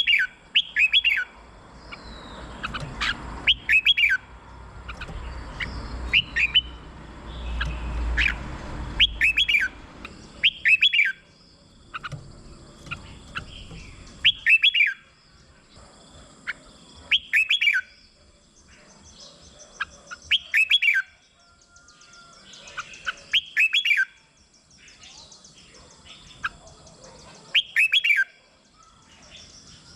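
Red-whiskered bulbul singing: short, bright phrases of quick falling whistled notes, repeated every two to three seconds. A low rumble sits underneath for about the first ten seconds.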